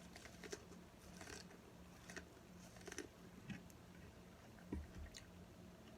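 Faint chewing and biting of corn on the cob, with scattered small crunchy clicks and wet mouth sounds.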